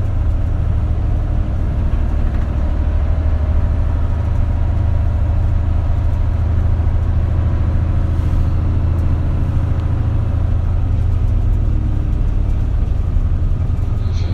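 Isuzu Erga (KL-LV280L1) diesel city bus running, heard from inside the passenger cabin as a steady, loud low engine drone with road and cabin noise.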